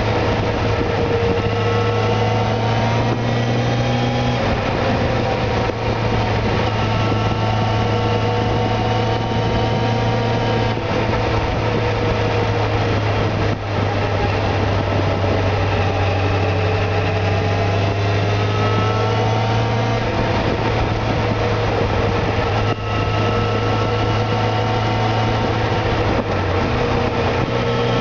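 Motorcycle engine running at part throttle on the move. Its pitch rises and falls gently as the throttle is eased on and off, and climbs near the end. Steady wind rush runs underneath.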